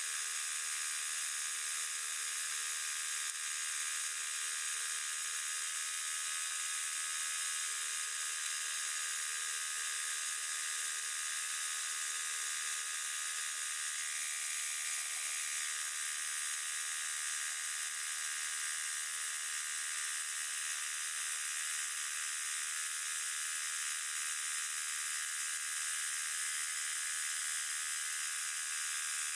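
Sawmill running and cutting through a log in sped-up footage, so its motor and blade come out as a steady, high-pitched whir with no low end.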